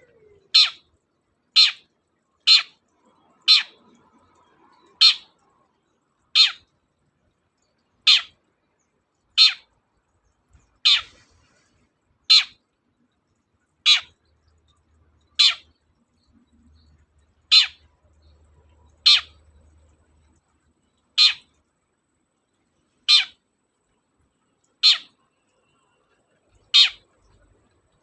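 Long-tailed shrike (cendet) giving short, harsh calls over and over, one every one to two seconds.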